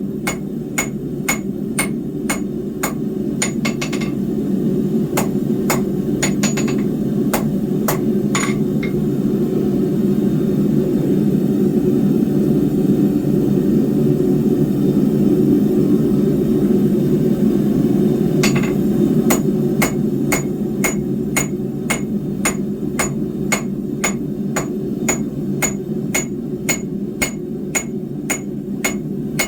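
Hand hammer striking hot square steel bar on an anvil in a steady rhythm of about two blows a second, each with a bright ring. The hammering stops for about ten seconds in the middle and then resumes. A steady low rushing noise runs underneath throughout.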